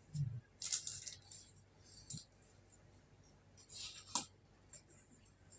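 Close-up eating sounds: crackly chewing and mouth clicks in short bursts, the loudest about a second in and about four seconds in.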